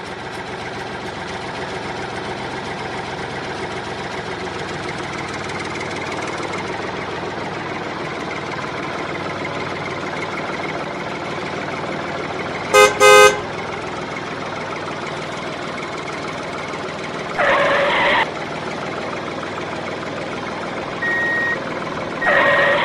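A vehicle runs steadily, with two short horn toots about thirteen seconds in and two brief noisy bursts near the end.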